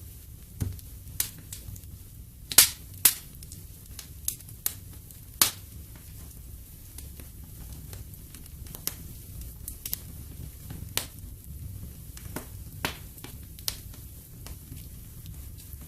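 Wood fire in a fireplace crackling, with irregular sharp pops and snaps over a steady low rumble of the flames; two louder pops come close together a few seconds in.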